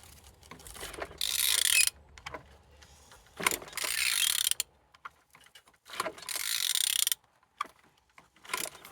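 Ratchet wrench turning over a VW 2.0 TDI BKD four-cylinder diesel engine by hand, in three strokes of about a second each, a couple of seconds apart, with ratchet clicks between. The engine turns over without binding, which is what is said of it ("turning good").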